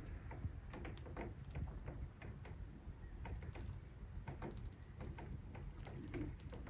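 Light, irregular clicks and taps, a few each second, from Bengalese finches hopping and pecking about their cage, over a steady low rumble.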